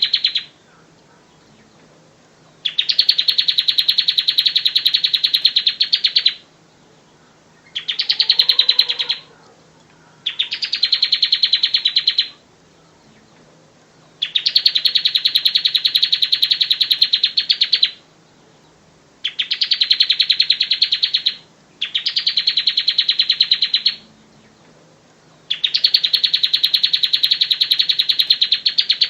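Bar-winged prinia singing: a series of fast, pulsing trilled phrases, each one to four seconds long, repeated about seven times with short pauses between them. A faint steady low hum lies underneath.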